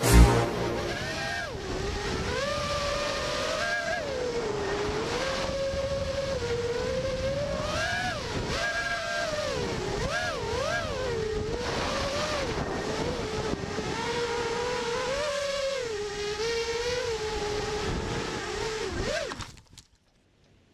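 FPV quadcopter motors whining, the pitch swinging up and down with the throttle, cutting off suddenly near the end.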